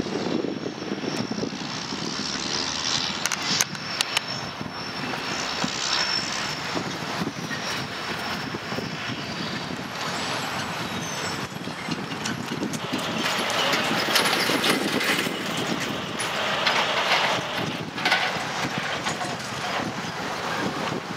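The rear of a loaded coal train rolling away, with wheels running over the rails and the pushing EMD SD70ACe distributed-power locomotive at the back. A thin high squeal sounds over the first several seconds.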